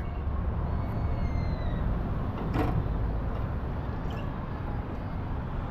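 Motorcycle engine idling with a steady low rumble, with one sharp click about two and a half seconds in.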